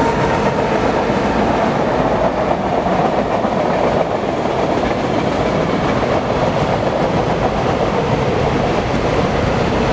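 BNSF freight train rolling past at steady speed: a continuous rumble of wheels on rail, with no horn or pauses.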